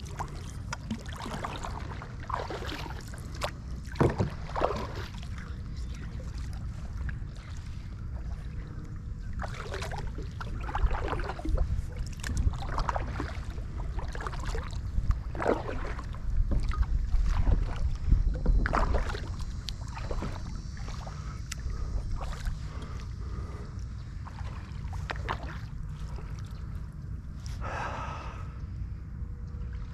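Kayak paddle strokes: the blades dip and splash in the creek water in irregular strokes about every second, over a steady low rumble that swells around the middle.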